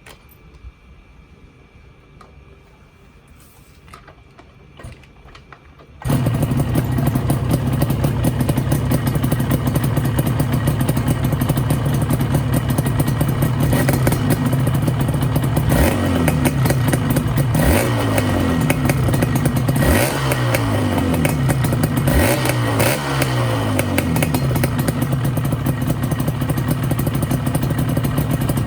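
Yamaha RZ250's two-stroke parallel-twin engine running, coming in abruptly about six seconds in after a faint stretch. From the middle on it is blipped several times, the pitch rising and falling back after each blip, then it settles to a steady run.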